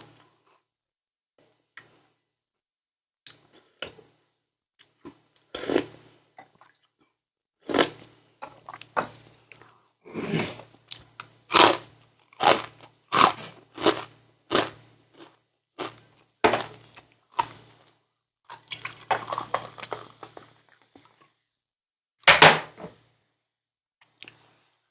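Close-up eating sounds: a person chewing and crunching food in irregular clusters of short, crisp bites, with brief silent pauses between, busiest through the middle and with one loud crunch near the end.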